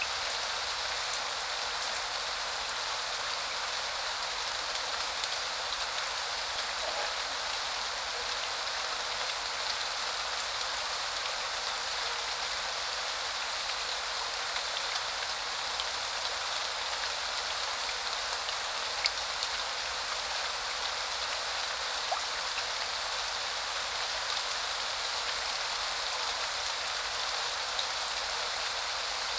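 Steady spring rain falling and pattering on surfaces, with the odd louder single drop standing out.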